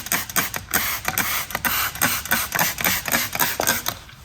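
Degreaser sprayed from a spray bottle onto engine parts in a quick run of short, hissing squirts, several a second.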